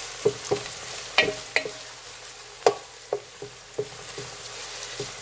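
Sliced onions with minced garlic and ginger sizzling in oil in a pot while a wooden spoon stirs them. There is a steady hiss and irregular sharp taps of the spoon against the pot.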